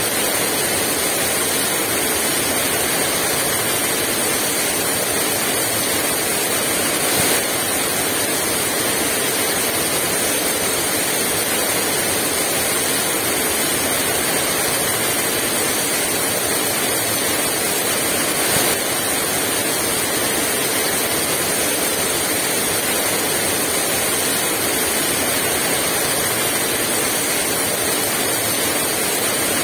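Heavy rain pouring steadily: a dense, even hiss with no let-up, and two brief slightly louder moments, about a quarter and two-thirds of the way through.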